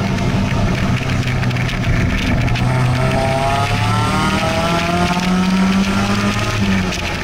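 Car engine heard from inside an open-top convertible, with wind and road rush around it. The engine pulls through a corner, then its pitch rises steadily as it accelerates from about three seconds in.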